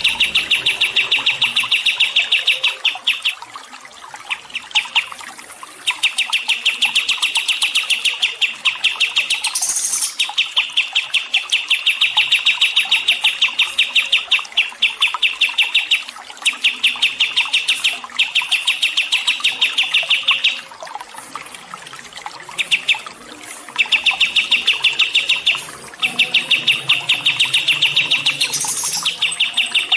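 A songbird singing long phrases of rapid, evenly repeated chirps, each run lasting several seconds with short pauses between. A faint, steady trickle of water runs underneath.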